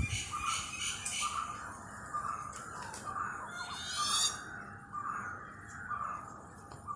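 Several wild birds calling: one gives a short, mid-pitched call over and over, about once a second, while others add high chirps and a quick run of rising notes about four seconds in.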